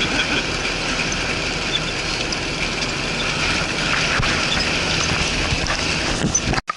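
Cab noise of a GAZ-69 on the move: steady engine and road rumble with light rattles and knocks, cutting off suddenly near the end.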